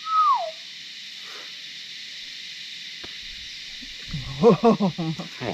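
One short whistled note sliding down in pitch at the start, then a steady faint hiss, with a person's voice murmuring briefly near the end.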